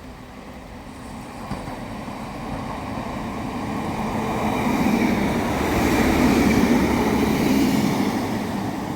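Class 156 Sprinter diesel multiple unit approaching and running past, its rumble building over several seconds and easing slightly near the end.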